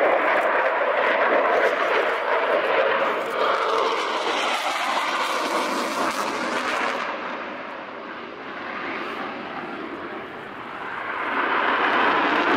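Military fast jet passing at an air show, its jet engine noise loud at first. About seven seconds in the noise dulls and fades as the jet moves away, then it swells again near the end as the jet comes back round.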